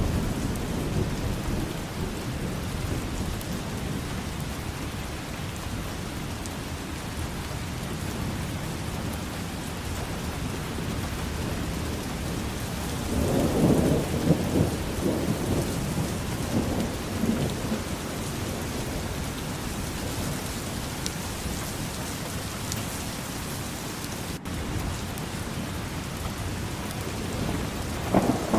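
Steady heavy rain with thunder rumbling: a long low roll of thunder about halfway through, and shorter rumbles at the very start and end.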